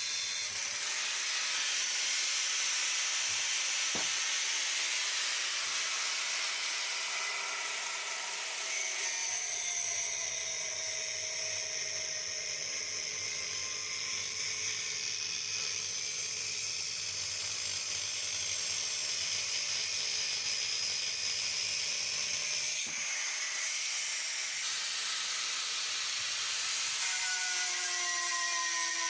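Angle grinder cutting steel, its high whine sagging and recovering in pitch as the disc is loaded and eased off.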